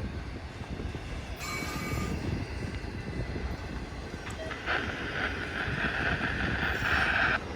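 Train rolling past with a steady low rumble of wheels on rail. A brief high-pitched squeal comes about a second and a half in, and a longer, louder squeal runs from about five seconds in to near the end.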